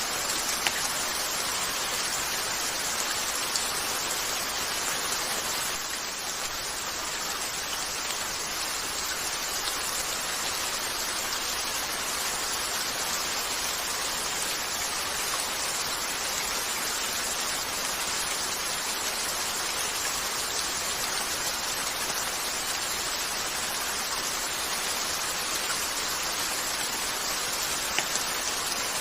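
Steady rain falling on a window, an even hiss with no letup. A few faint sharp ticks stand out now and then.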